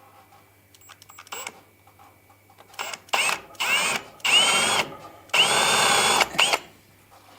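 Power drill run in about six short bursts, its motor whine rising at the start of each, the last two the longest, while drilling holes to dynabolt a timber beam in place.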